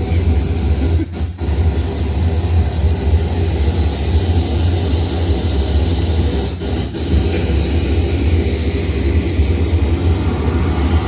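Pink noise played at about 110 dB through a PA with a 15-inch subwoofer and full-range top: a loud, steady hiss with heavy bass. It cuts out briefly about a second in and again near seven seconds, dropouts the testers put down to the recording rather than the Bluetooth link.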